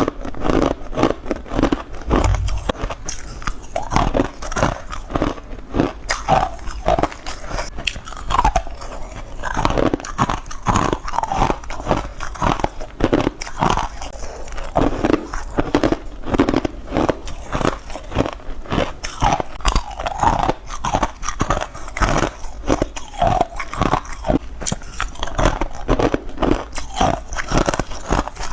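Ice being bitten and crunched between the teeth, a continuous run of crisp crunches several times a second.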